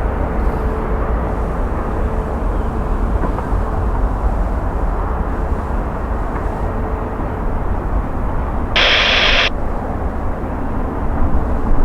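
Jet airliner engines at an airport, a steady low rumble. A brief burst of radio static cuts in about nine seconds in.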